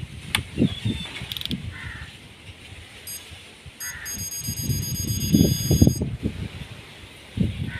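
Short, very high-pitched electronic beeps, in a choppy run about four to six seconds in, over low irregular knocking and background noise.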